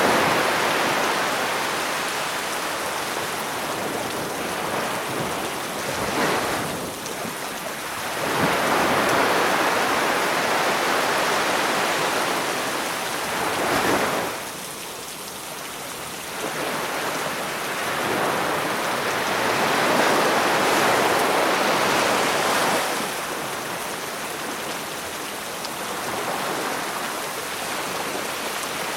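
Sea waves breaking on the shore and washing back, swelling and fading every few seconds, with a steady hiss of rain over them.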